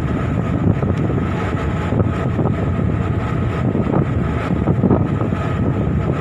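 Coast guard patrol boat's engines running steadily at sea, with wind buffeting the microphone.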